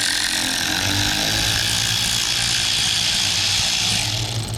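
A power tool running in one steady stretch of about five seconds, spinning out a fastener during an engine teardown. It stops near the end.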